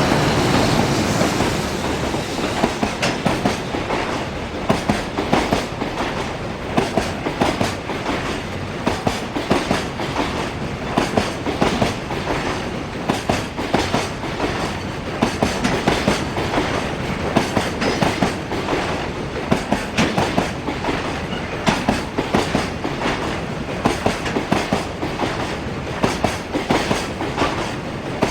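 A long container freight train passing at speed: the wagons' wheels clack in quick repeated knocks over the rail joints, with steady rolling rumble. The loudest moment is right at the start, then it settles to an even passing roar of wagons.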